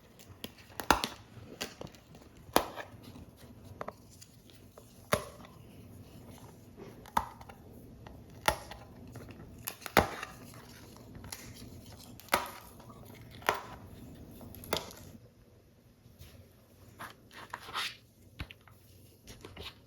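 Paper model parts being worked by hand: a series of single sharp snaps and clicks, one every second or two, with quieter paper rustling between them.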